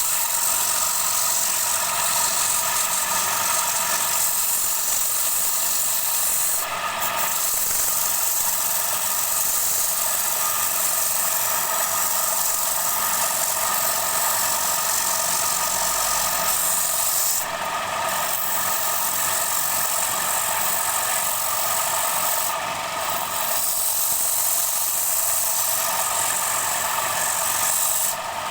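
Wood lathe running while the spinning wooden bowl blank is worked with a tool or abrasive, giving a steady scraping hiss over the machine's hum. The hiss dips briefly three times, as the tool comes off the wood.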